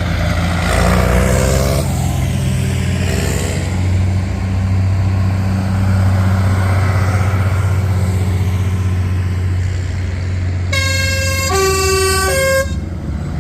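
Diesel tractor engines running steadily as they pass by. About 11 seconds in, a loud two-note horn blasts for about two seconds, switching between a higher and a lower note, sudden enough to startle.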